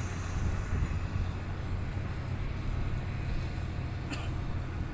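Diesel engine of a 10-wheel Howo dump truck running steadily with a low rumble. A short click sounds about four seconds in.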